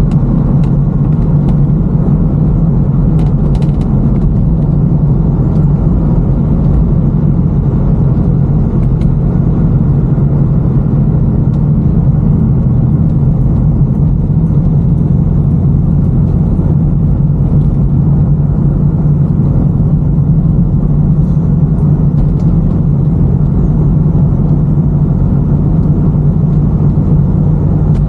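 Car engine and road noise heard from inside the cabin while cruising at a steady speed: a constant low hum and rumble that holds the same pitch throughout.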